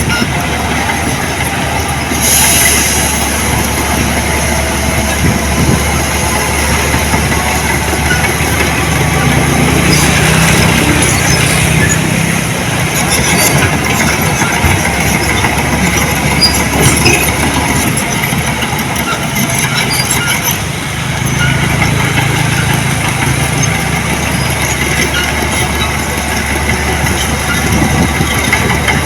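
Diesel engine of heavy earthmoving equipment running steadily, with low swells of engine tone twice and scattered clanks.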